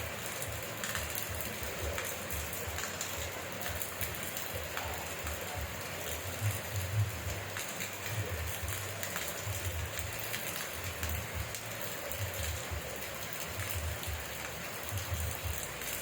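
Steady rain falling, with scattered sharp ticks of single drops and irregular low thuds throughout.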